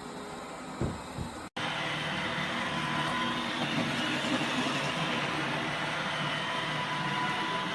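Robot vacuum running: a steady motor whir with a high whine over it. It starts abruptly about a second and a half in, after a lower hum with two soft knocks.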